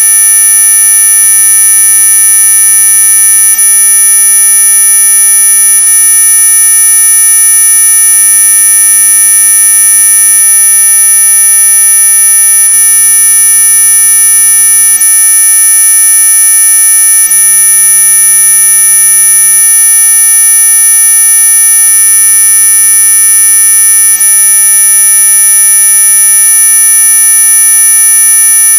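Electronic anti-mosquito repellent tone: a loud, steady, unchanging high-pitched whine made of many pitches at once, the strongest very high, like a buzzer that never stops.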